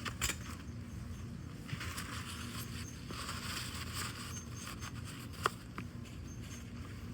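Firewood burning in a camping fire pit, crackling with scattered sharp pops and a stretch of hissing flame in the middle.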